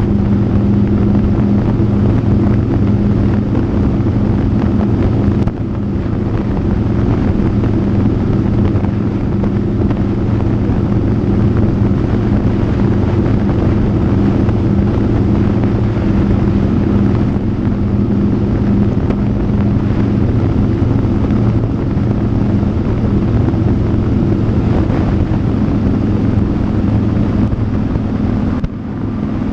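Motorcycle engine running at a steady cruise, with wind rushing over the microphone. The sound dips briefly twice, about five seconds in and near the end.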